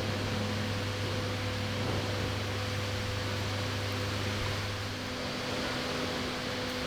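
Forklift engine idling with a steady mechanical hum; its low drone drops away about five seconds in, leaving a lighter hum.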